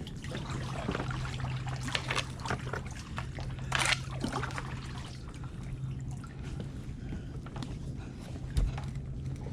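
Kayak paddling in calm water: paddle blades dipping, with water trickling and dripping off them. There is a louder splash about four seconds in and a dull knock near the end.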